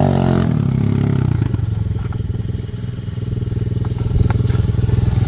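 125cc manual quad bike engine, its revs falling away in the first second, then running steadily at low revs.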